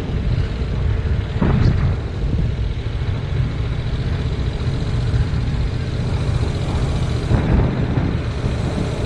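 Yamaha MT-07's parallel-twin engine running at steady revs while riding, with wind buffeting the helmet-mounted action camera's microphone and swelling briefly twice.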